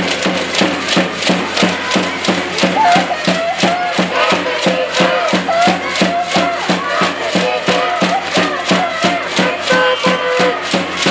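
Volleyball supporters' cheering: a fast, even beat of about four strokes a second, with a group of voices chanting over it.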